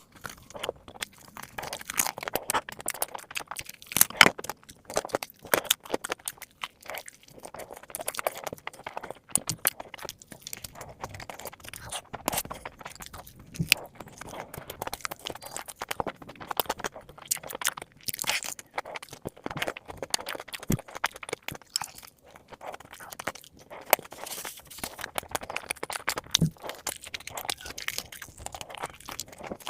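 Close-up crunching and chewing of crispy fried chicken drumsticks, with a fast, irregular run of sharp crackles and crunches as the coating is bitten.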